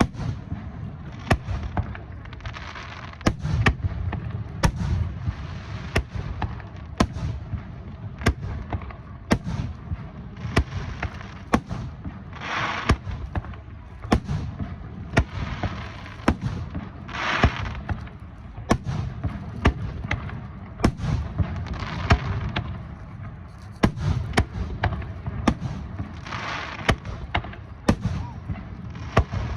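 Aerial fireworks going off in quick succession, with sharp bangs about once or twice a second. Several times, longer bursts of crackling hiss from crackle-effect shells join in.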